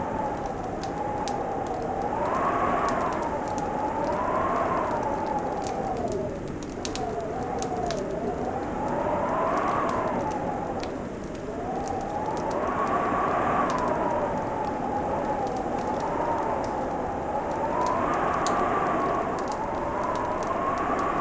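Wood fire crackling with scattered sharp pops, under a whistling wind howl that slowly rises and falls in pitch every few seconds.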